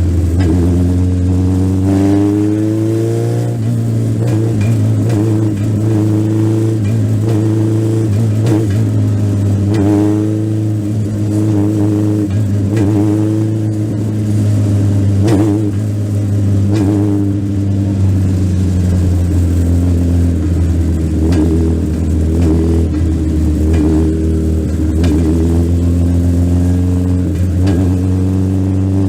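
Legend race car's Yamaha four-cylinder motorcycle engine at racing speed, heard from the onboard camera: the engine note climbs in the first few seconds, then rises and falls again and again as the throttle comes off and back on around the short oval, over a steady low drone.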